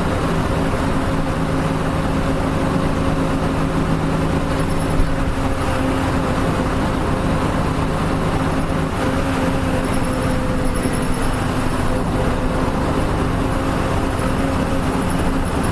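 Nishitetsu bus (Nissan Diesel KL-UA452MAN) running along the road, its diesel engine holding a steady hum over road noise. A lower engine tone drops away about five seconds in, with a small knock at the same moment.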